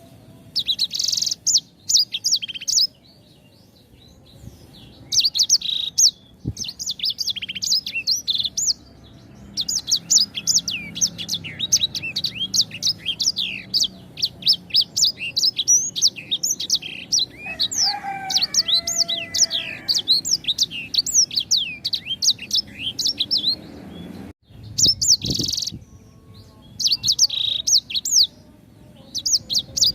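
A songbird of the kind Indonesian bird-keepers call 'sanger', singing in fast runs of sharp, high chirping notes, in phrases broken by short pauses, with a lower call about two-thirds of the way through.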